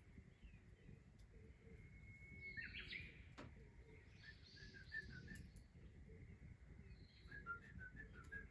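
Faint wild bird calls: a short whistled note, then two runs of quick chirps.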